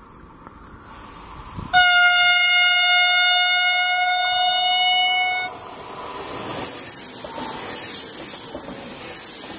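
Trenitalia electric passenger train sounding one long, steady horn blast that starts about two seconds in and lasts nearly four seconds, then the loud rushing rumble of the train running past close by. The sound cuts off suddenly at the end.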